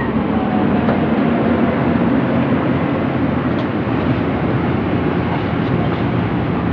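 Heavy diesel engine running steadily under load, a constant low drone with no change in speed.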